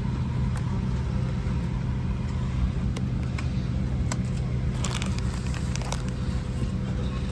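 Steady low hum inside a Boeing 737-800 cabin on the ground, with a faint steady tone above it and scattered small clicks and rustles around the middle.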